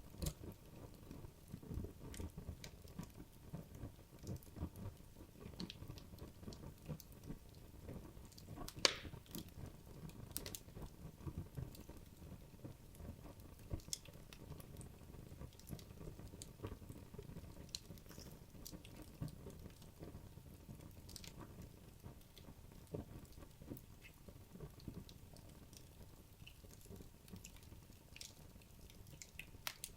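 Wood logs burning in a fireplace: irregular sharp crackles and pops over a soft low rumble of the fire, with one louder pop about nine seconds in.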